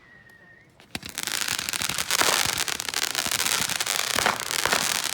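Consumer fireworks crackling: a dense, rapid run of small pops and crackles that starts about a second in and keeps going.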